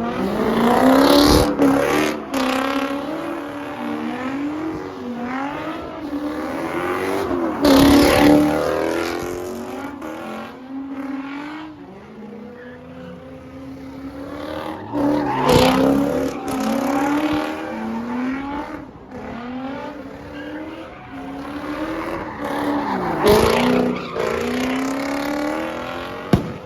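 A car engine revving up and down over and over, with tyre squeal, as a car spins donuts. It grows loudest about every seven or eight seconds as it swings close.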